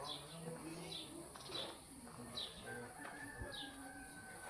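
A small bird calling over and over, short high chirps that drop in pitch, repeating about once a second. A faint, steady, high tone comes in about three seconds in.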